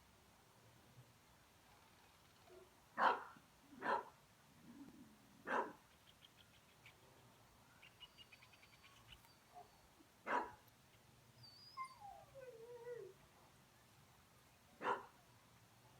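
Puppy giving five short, sharp barks at uneven intervals, with a falling whine between the last two.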